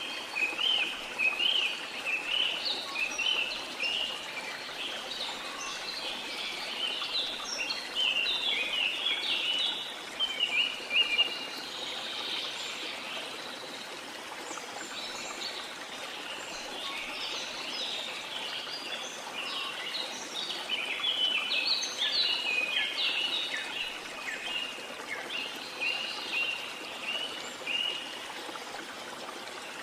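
Steady rush of a waterfall with many birds chirping over it in quick, overlapping calls. The chirping is thickest in the first ten seconds and again about twenty seconds in.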